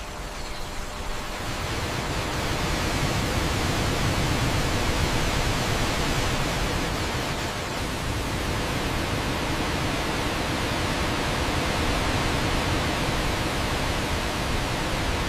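Steady rushing water of a waterfall: a dense, even noise with no breaks.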